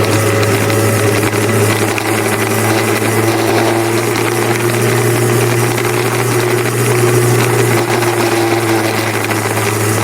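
Motorcycle engine running steadily, a low even hum that holds nearly the same pitch throughout.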